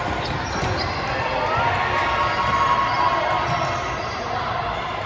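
Indoor volleyball court sounds in a large hall: athletic shoes squeaking on the court floor and the ball being hit and bouncing, with voices in the background.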